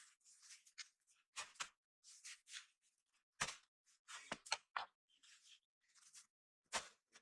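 Faint, irregular scraping and handling sounds: short scrapes with a few sharper knocks, separated by quiet gaps.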